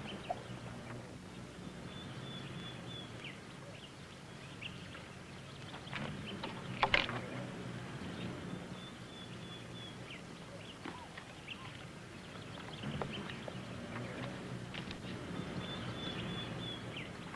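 Sparse outdoor ambience: a bird's short high trill repeats three times, about seven seconds apart, over a faint steady low hum. A brief cluster of knocks comes about seven seconds in.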